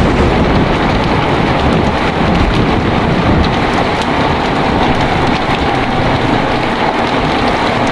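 Heavy rain pouring steadily, with a long low roll of thunder rumbling underneath that dies away near the end.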